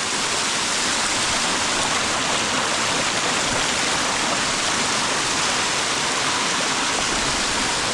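Natural waterfall, water pouring down steadily in a constant even rush.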